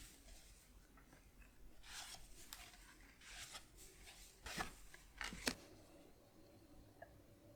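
Quiet handling of Pokémon trading cards: soft swishes of cards sliding against each other, then two short sharp taps or snaps about a second apart near the middle.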